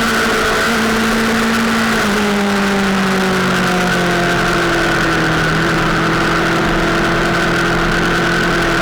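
Sport motorcycle engine running at high revs under a steady rush of noise, its pitch sagging slowly, with a small drop about two seconds in.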